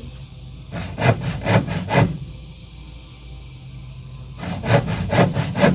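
Hand saw cutting through a wooden board, back-and-forth strokes about two a second, in two runs with a pause between them, over a steady low hum.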